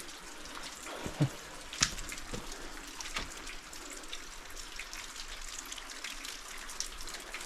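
Creek water running over rocks, a steady rush, with a few sharp knocks about one, two and three seconds in from footsteps on the wet stones.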